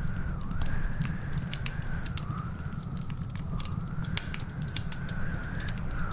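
Wood fire crackling, with frequent irregular sharp pops and snaps over a steady low rumble. Behind it runs a thin whistling tone that slowly wavers up and down in pitch.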